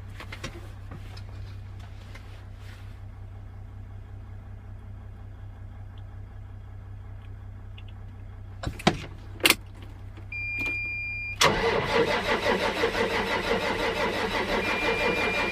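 The Case IH MXM 190 tractor's diesel engine is cranking on the starter in a below-freezing cold start after glow-plug preheat, turning over for about four seconds without catching. Before it come two sharp clicks and a high steady tone.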